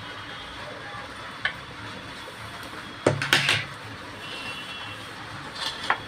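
Metal utensils clinking and clattering against dishes: one small click, then a loud cluster of clatters about halfway through with a brief ring, and a few more near the end, over a steady background noise.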